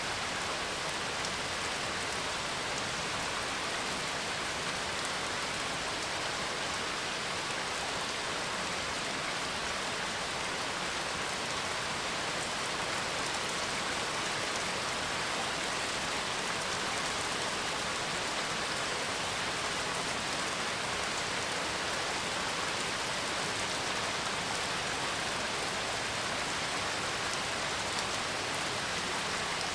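Steady rain falling, an even hiss of drops with no thunder heard.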